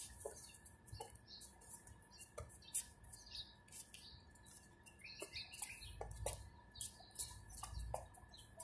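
Faint chirping of small birds, many short high chirps scattered throughout, over a faint steady high tone and occasional low rumble.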